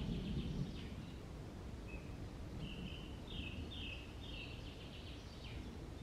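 A small bird singing a short phrase: one brief high note, then a quick run of four or five falling whistled notes, over a steady low outdoor rumble.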